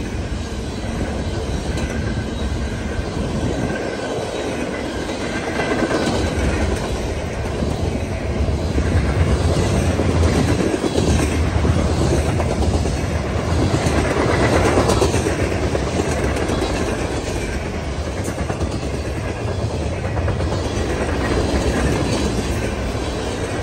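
Freight train rolling past at trackside: the steady rumble and rattle of loaded freight cars' steel wheels on the rails, swelling louder in the middle as the cars go by.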